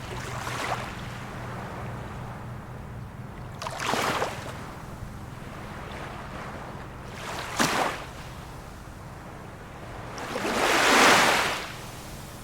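Small waves of a calm sea breaking and washing on the shore, about every three to four seconds, the biggest near the end. A faint steady low hum runs underneath.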